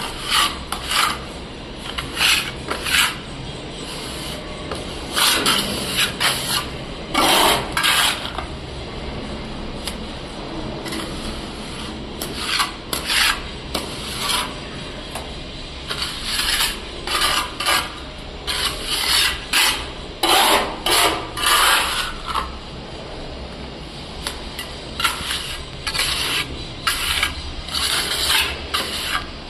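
Repeated rasping, rubbing strokes in irregular bursts, like something being filed or scraped by hand.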